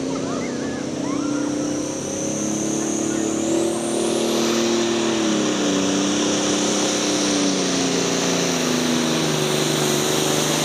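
Engine of a truck or tractor pulling vehicle running hard, its pitch rising and falling. A high whistle climbs steeply about three to four seconds in, like a turbocharger spooling up.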